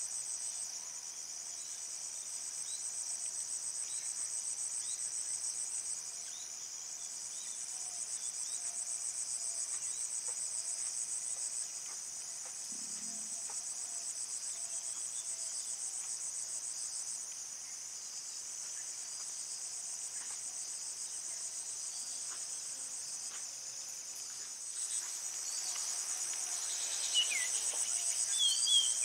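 A chorus of crickets trilling steadily at a high pitch, easing and swelling every few seconds. Faint bird chirps come in near the end.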